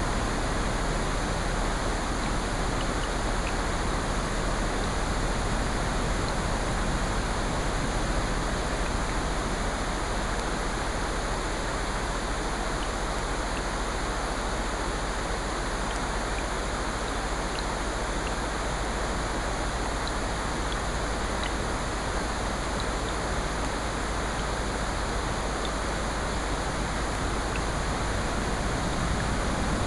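Steady blended rain and ocean surf, an even rushing noise, with faint scattered crackles of a wood fire.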